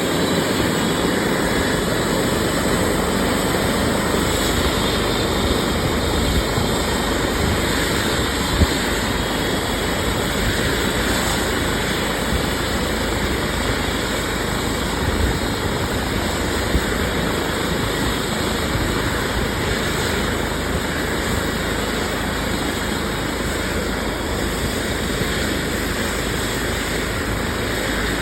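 Air ambulance helicopter running, a steady loud noise with no letup.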